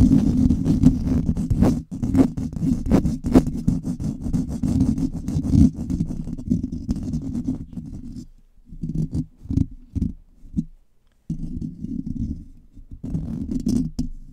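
Fingers scratching fast and hard directly on a microphone, giving a dense, rumbling scratching sound. It runs continuously for about eight seconds, then comes in short broken bursts with brief gaps, and picks up again steadily near the end.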